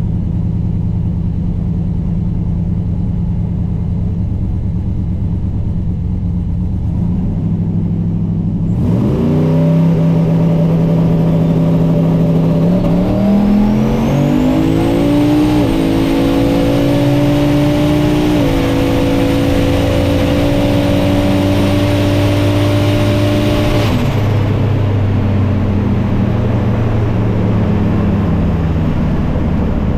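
Turbocharged LS V8 in a drag-racing pickup truck making a pass: a steady low rumble, then a launch about nine seconds in, with the revs climbing through the gears and a high turbo whine rising to a steady pitch. About twenty-four seconds in the driver lifts and it falls back to a low rumble.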